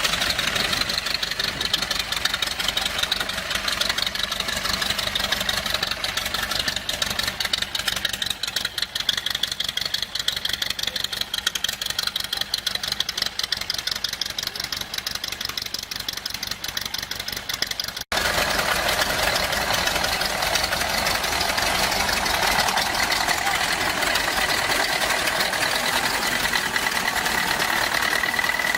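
Vintage farm tractor engine running steadily. About 18 seconds in the sound drops out for an instant and comes back with a slightly different tone.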